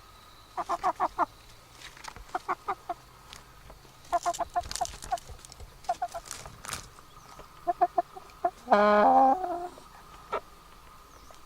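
Chicken clucking in quick runs of four or five short notes every couple of seconds, with one louder, longer squawk near the end.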